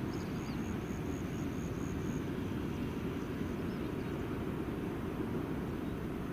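Steady low rumble of a Boeing 787-9 jet airliner on approach. A high chirp repeats about four times a second over the first two seconds.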